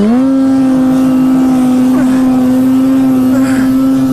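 Snowmobile engine that has just revved up, held at a steady high pitch under full throttle.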